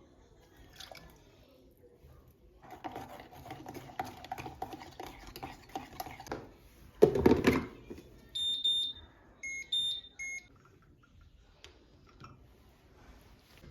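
Several seconds of rattling and clattering, then a loud thud, followed by four short high electronic beeps in two pairs from an appliance.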